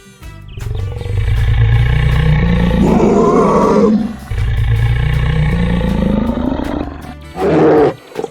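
Animal roar sound effects: two long loud roars, each rising in pitch, then a shorter call near the end.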